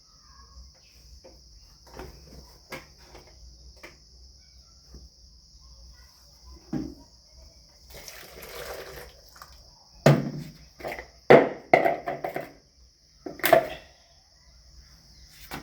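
Crickets trilling steadily, over a series of knocks and handling noises. About eight seconds in there is a short rush of noise, and the loudest thuds and knocks come in the last third.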